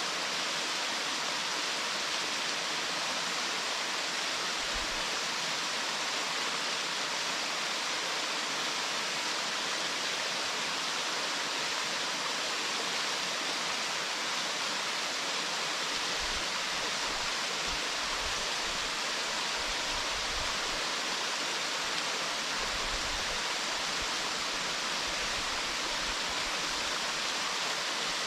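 Waterfall: a steady, even rush of falling water. A few brief low rumbles come in during the second half.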